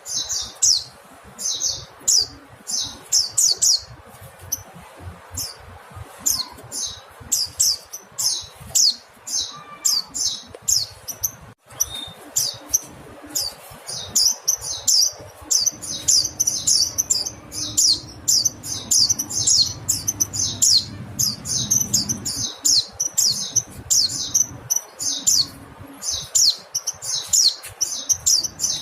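Mountain white-eye (pleci montanus) calling: a rapid stream of short, high chirps in quick runs of several notes with brief gaps. There is a momentary break a little before the middle.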